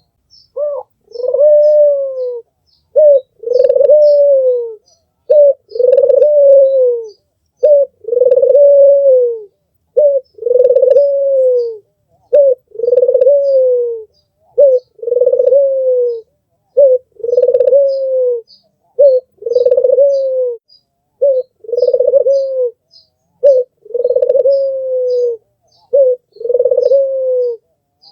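Albino Barbary dove (puter) cooing over and over, each coo a short note followed by a longer, falling note, about one every two seconds. Faint high chirps of small birds run underneath.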